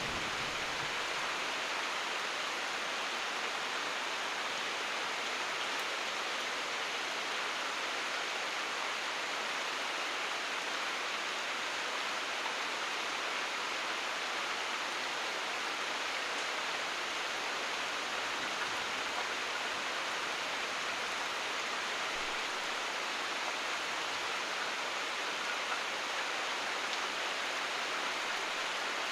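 Steady, heavy rain falling as an even hiss with no single drops standing out. The last of a low thunder rumble dies away right at the start.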